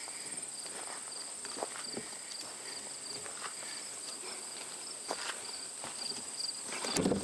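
Outdoor insect chorus: a steady high trill with a lower, pulsing chirp repeating beneath it. Scattered footsteps and rustling on the ground mix in, louder near the end.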